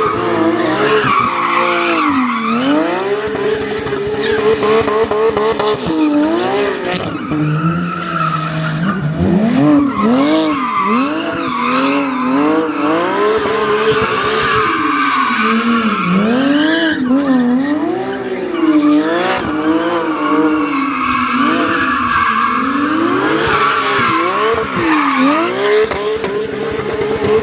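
Porsche 911 GT3 RS naturally aspirated flat-six exhaust, revved again and again, its pitch climbing and falling, and at times held high for a few seconds.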